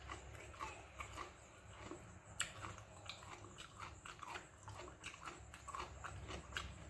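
Chewing and lip-smacking while eating soft fermented rice with okra stir-fry: irregular wet mouth clicks and smacks, several a second.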